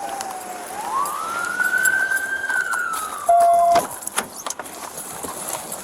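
Emergency vehicle siren on a slow wail: the pitch falls, rises, holds and then slowly falls again. A short, loud, steady beep sounds about three seconds in, and there are a few faint clicks.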